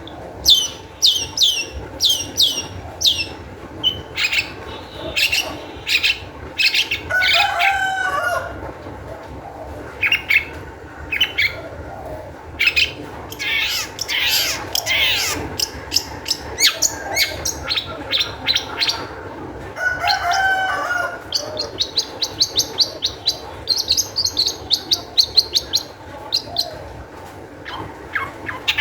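Long-tailed shrike (cendet) singing a lively, varied song: a run of sharp downward-sweeping chirps and some harsher notes, then a fast high trill in the last third.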